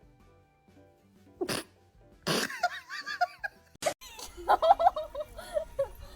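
A dog sneezes or snorts once, then gives a run of short, high whining cries that rise and fall in pitch, in two bursts.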